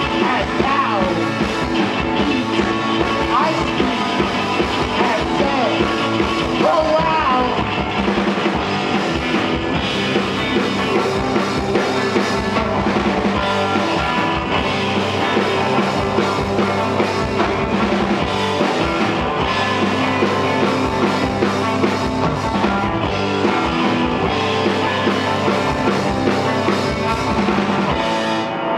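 A rock band playing a song live, the full band at a steady loud level, with a few sliding guitar or vocal lines in the first few seconds.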